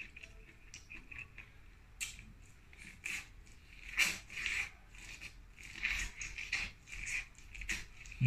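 Biting kernels off a piece of cooked corn on the cob and chewing them close to the microphone: irregular crunchy bites and wet mouth clicks, with a louder bite about four seconds in.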